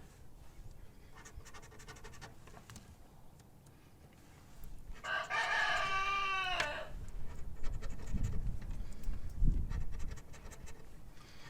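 A rooster crows once, for about two seconds, near the middle. Around it is faint scratching of a coin on a lottery scratch-off ticket.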